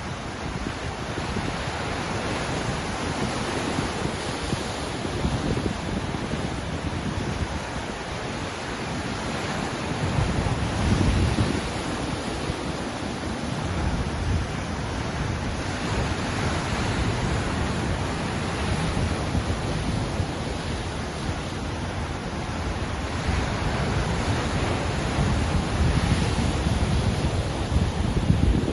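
Ocean surf: waves breaking and washing in a continuous rush, swelling louder about a third of the way in and again near the end.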